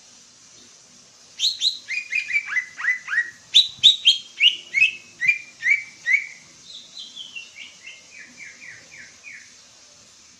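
Songbird singing a fast run of short, falling whistled notes, about four a second, starting about a second and a half in. The notes are loudest in the middle and end in a softer descending run near the end. A steady hiss lies under the song.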